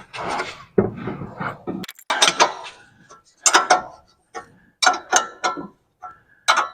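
Hand ratchet wrench clicking in short bursts about once a second as a nut is run onto a suspension bolt.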